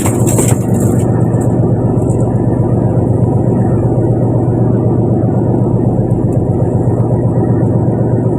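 Fishing boat's engine running steadily with a loud, low drone. A higher hiss with scattered clicks sits over it and stops about a second in.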